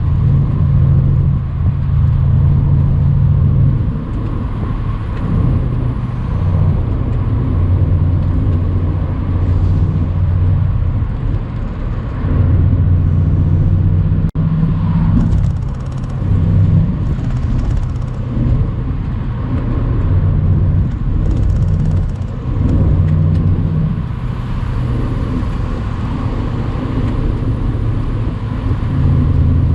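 Mercedes-AMG C63 cabriolet's twin-turbo V8 running on the move with the roof down. The deep engine drone rises and falls as the throttle is opened and eased, over wind and road noise.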